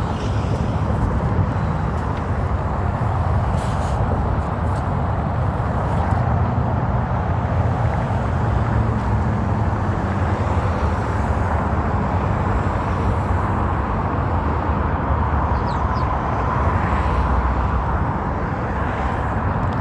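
Steady rumble of road traffic, a continuous low wash of passing cars with no distinct single vehicle standing out.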